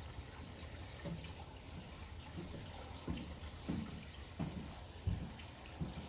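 Water dripping into a shallow pool: short, irregular plops, roughly one or two a second, over a low steady rumble.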